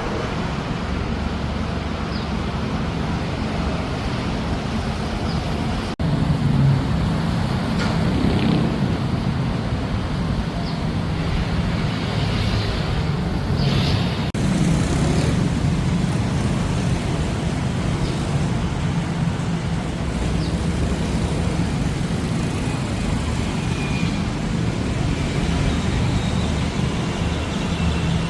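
Steady road traffic noise, engines running with a continuous low hum, growing slightly louder about six seconds in.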